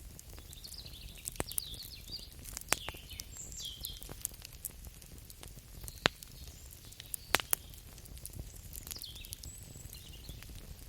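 Campfire crackling: irregular sharp pops and ticks over a low steady hiss, with four louder pops spread through. Faint high wavering chirps sound in the background early on and again near the end.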